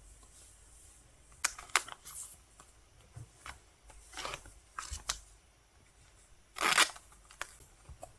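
Album packaging and its paper contents being handled: a scattering of light clicks and brief paper or plastic rustles, the loudest a short rustle near seven seconds in.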